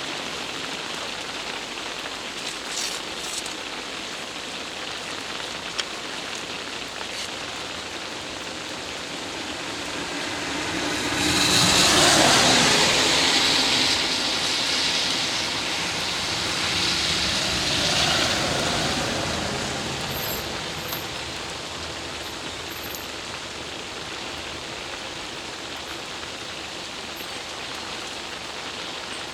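Steady rain hissing, with a louder rushing swell about eleven seconds in and a smaller one about seventeen seconds in.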